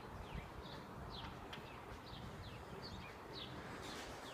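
Birds chirping faintly: a steady run of short, quick, downward-sliding chirps, about three a second, over a low rumble.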